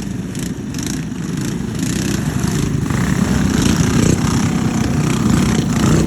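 Small minibike engine running at low speed, a rapid low-pitched putter that gets louder about two seconds in.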